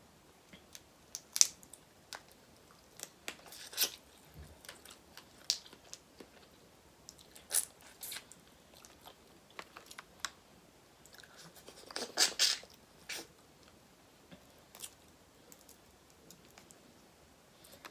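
Close-miked eating of seafood boil: scattered crunches and chewing, with a louder burst of crunching about twelve seconds in.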